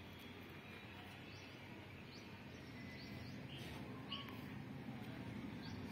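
Low, steady background rumble with a bird giving scattered short chirps.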